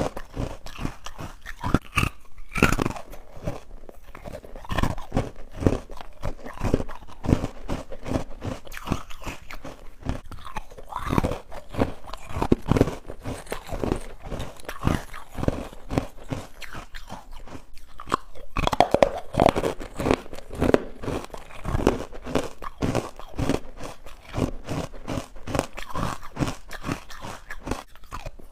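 A person biting and chewing chalky, powdery white ice bites full of tiny bubbles, close to the microphone: a dense run of sharp crunches that keeps going, with louder bursts of crunching about a third and two-thirds of the way through.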